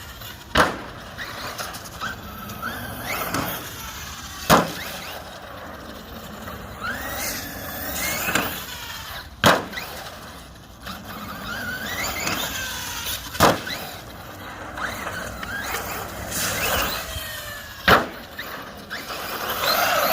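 1/7-scale Cen Racing Reeper RC monster truck jumping again and again on skate-park concrete. Its electric motor whines up and down between five hard landing thuds, about four seconds apart.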